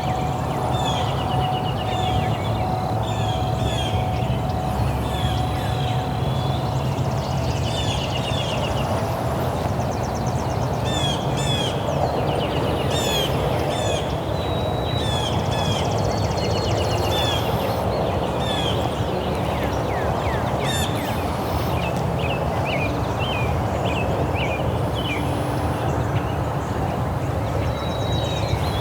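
Birds chirping and calling over and over, many short notes, over a steady low background rumble.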